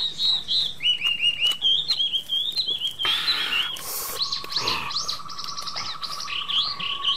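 Small birds chirping in quick runs of short rising and falling notes. A brief rustle comes just after three seconds, and a steady high drone joins about four seconds in.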